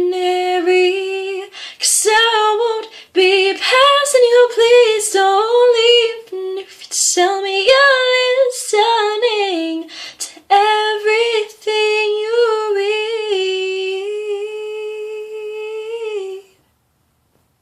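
A woman's solo voice singing a cappella, gliding between notes with vibrato. She holds a long final note and then stops, after which there is silence.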